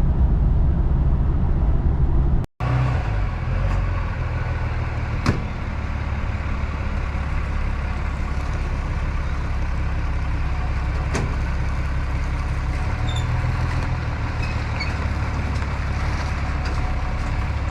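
Cummins diesel engine of a Dodge Ram pickup running steadily, a low rumble with road and cab noise. The sound cuts out abruptly for an instant about two and a half seconds in, then the engine rumble carries on, with a couple of sharp clicks.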